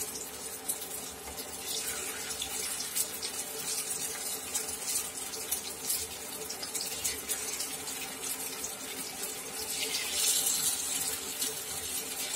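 Batter-coated brinjal (eggplant) slices sizzling and crackling as they shallow-fry in hot sunflower oil, with a steady hum beneath; the sizzle swells louder about ten seconds in.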